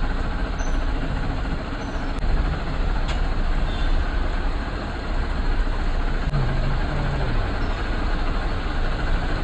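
Safari vehicle on the move: a steady engine and road rumble, heavy in the low end, heard from on board.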